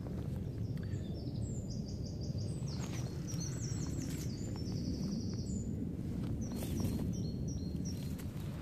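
Songbird singing high phrases of quick repeated notes and trills, from about two seconds in to about five seconds, with a few short chirps near the end, over a steady low rumble.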